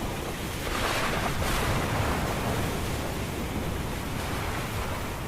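Steady rushing noise of a rainstorm ambience, rising slightly about a second in.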